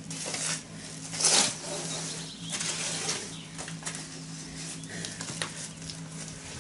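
Electric concrete mixer running with a steady low hum, under a series of irregular rushing, scraping noises, the loudest about a second in. It is loaded with more mix than it is meant to take.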